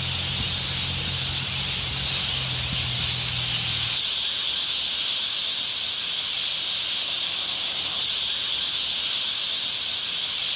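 A steady high hiss outdoors, with a low hum underneath that stops about four seconds in.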